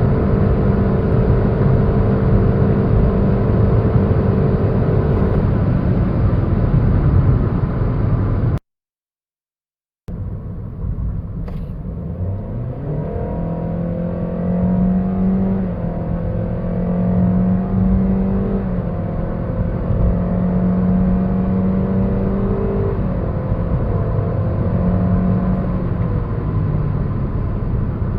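Toyota Yaris Cross under hard acceleration: first a steady engine drone with heavy road and wind noise at speed, then, after a brief cut to silence, the engine note climbs quickly and then holds an almost constant pitch, shifting only in small steps, as the car gathers speed.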